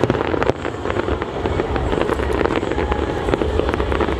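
Aerial fireworks crackling, many small pops in quick succession over a steady low rumble.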